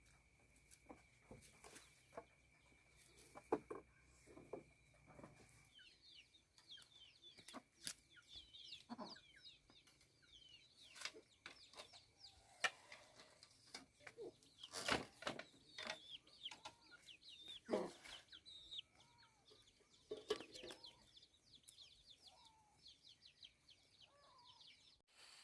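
Faint birds chirping: rapid, high, short chirps start about six seconds in, with a few lower calls and scattered light knocks and taps. A faint steady high whine runs through the first few seconds.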